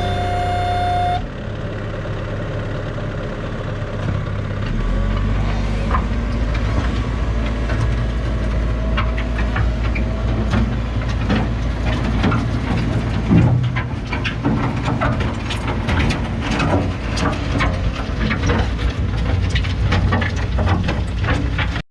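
A tractor's engine running, with a steady low rumble and growing clatter of knocks and rattles. A brief bit of music plays in the first second.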